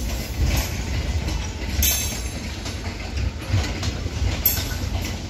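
Passenger train coaches rolling past with a steady low rumble. The wheels clack sharply over the track several times at uneven intervals.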